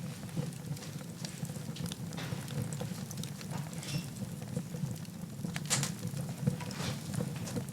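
Wood fire in a fireplace crackling: scattered small pops and snaps over a steady low rumble of the flames, with one sharper pop about three-quarters of the way through.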